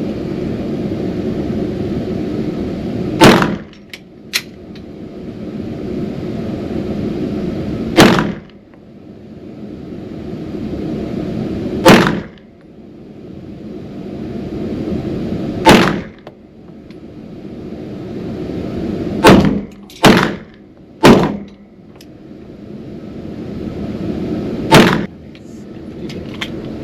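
A 9mm Canik Rival pistol fired in slow single shots, eight in all, mostly about four seconds apart, with three quicker shots about a second apart in the middle. A steady low hum runs between the shots.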